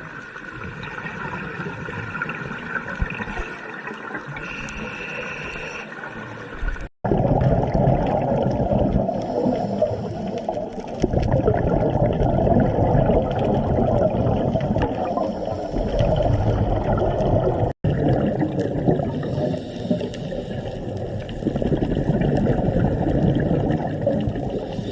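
Water sounds in three spliced clips: a quieter stretch with a few faint steady tones, then, after a brief cut about seven seconds in, louder rushing, churning water that runs on through a second cut near the end.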